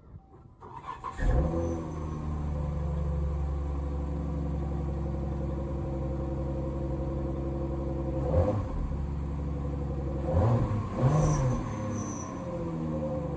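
Dodge Journey R/T's 3.6-litre V6 and its exhaust starting up about a second in, with a loud flare, then settling to a steady idle. Near the end there are three short throttle blips, each rising and falling back to idle.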